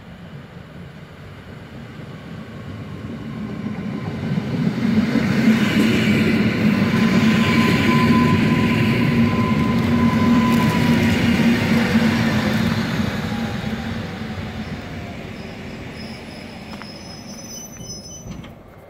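EN57 'Feniks' electric multiple unit running into the platform and slowing to a stop: the rolling noise of wheels on rail builds up, is loudest over the middle, then dies away as it slows. A thin steady squeal sounds for a few seconds while it is loudest.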